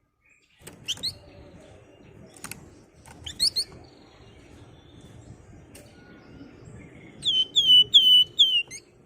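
Flamboyan songbird calling with sharp, whistled, slurred notes: a couple of quick upswept calls about a second in and again a few seconds later, then a loud run of four down-slurred calls near the end, over a faint low background hum.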